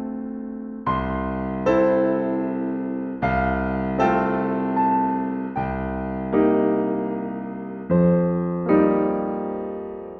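Solo piano playing slow music. A new chord is struck roughly every second, and each one rings on and fades.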